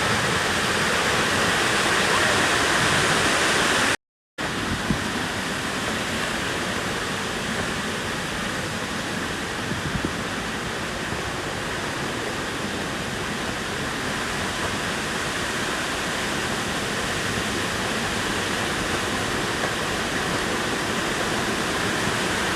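Steady rushing of a creek waterfall, cutting out for a split second about four seconds in, then going on a little quieter.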